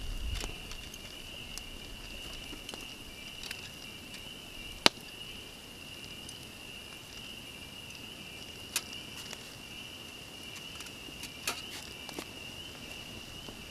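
Chorus of tree frogs, a steady high-pitched trill, broken by a few sharp knocks, the loudest about five seconds in.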